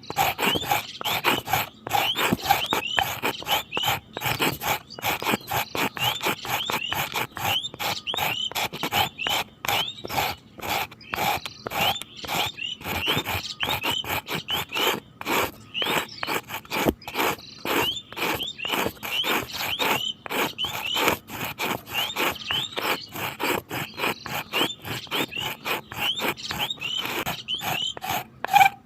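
Animal calls: a dense, continuous run of short high chirping calls, several a second, overlapping one another.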